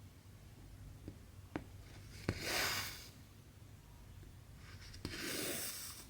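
Hand cross-stitching on 11-count fabric: a few small clicks as the needle taps and pokes through the cloth, then cotton thread drawn through the fabric with a swish, twice.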